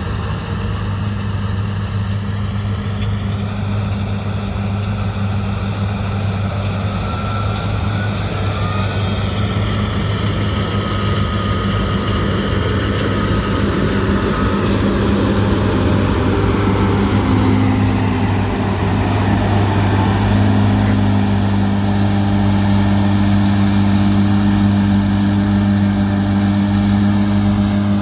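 Large farm diesel engine running steadily under a constant drone, growing a little louder as it goes, with fainter higher tones slowly shifting in pitch above it.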